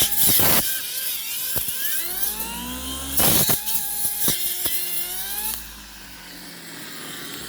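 Cordless brushless brush cutter cutting brush with a blunt blade: the motor whine dips in pitch and recovers as the blade bites, with harsh bursts and sharp ticks as it strikes stems. About five and a half seconds in the cutting stops and the whine eases off, its pitch slowly falling.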